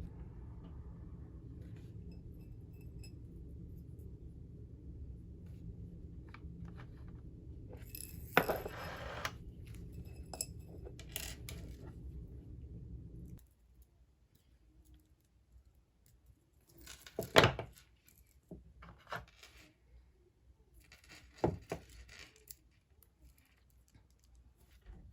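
Small hard pieces clicking and clinking as jewelry-making and packing materials are handled, with a few sharper knocks. A steady low hum underlies the first half and cuts off abruptly about halfway through.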